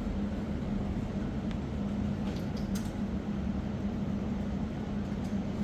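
A vehicle's engine runs steadily with a constant hum and a low rumble beneath it.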